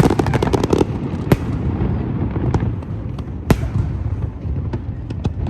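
Aerial fireworks going off: a rapid crackle of sharp reports in the first second, then single sharp bangs about a second in and again midway, over a continuous low rumble of bursts.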